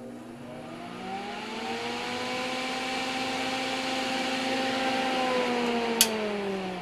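Solder fume extractor's all-metal fan spinning up to high speed: a whine rising in pitch over a rush of air, then steady. Near the end the whine begins to fall as the fan spins down, and there is one sharp click.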